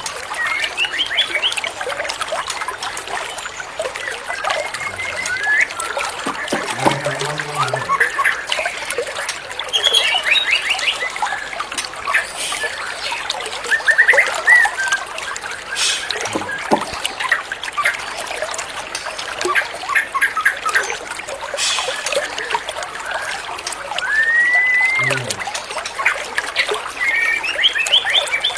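Water trickling steadily while a white-rumped shama sings over it: varied short whistles, rapid trills and rising whistled notes, repeated throughout.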